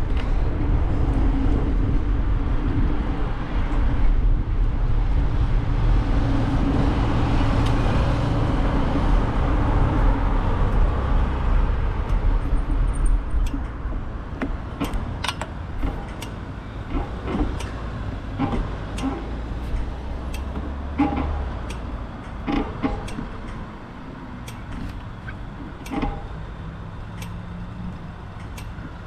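Road traffic: a motor vehicle passing with a low rumble that swells and fades over the first dozen seconds or so. After that comes quieter outdoor ambience with scattered sharp clicks.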